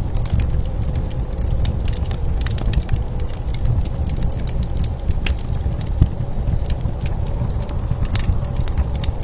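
Wood fire crackling with frequent small irregular pops, over a steady low rumble of blizzard wind.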